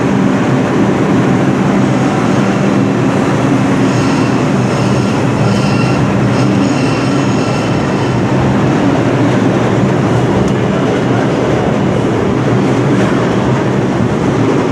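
New York City subway train running along the station platform: a loud, steady rumble of wheels on rail, with faint high tones in the middle.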